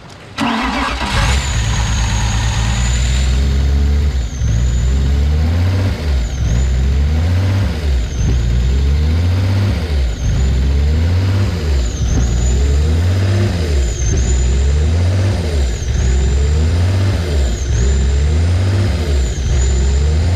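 BMW E36 engine cranked and catching about half a second in, then idling roughly, its speed dipping and recovering about every two seconds. The rough, hunting idle is what the owners put down to a vacuum leak.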